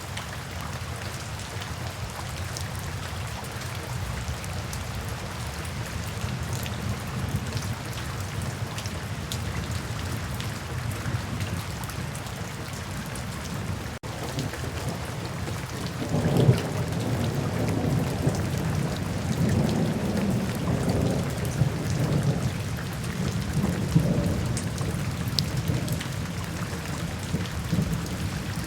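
Steady rain falling, with a long roll of thunder that begins about halfway through and rumbles on, swelling several times.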